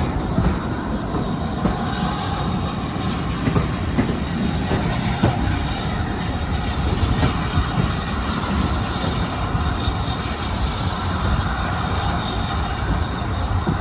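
Train running along the line: a steady rumble of wheels on rails, with a few clicks over the rail joints.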